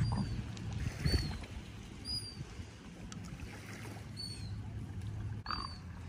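Short, high bird calls repeating about once a second over the steady low hum of a boat's motor on the water. A sharp click comes near the end.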